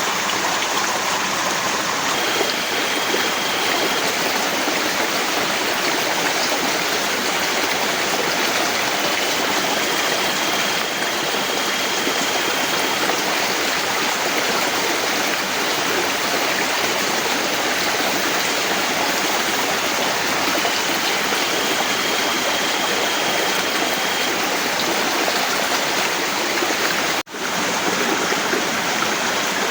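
Heavy rain falling steadily, a dense even rushing hiss. A faint high steady tone comes and goes a few times, and the sound drops out for an instant near the end.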